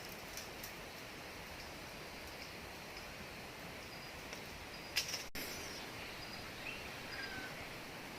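Steady outdoor background hiss with a few faint, short bird chirps and a single sharp click about five seconds in.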